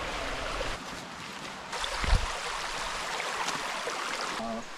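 Steady rushing of a stream or waterfall, with one low thump about two seconds in.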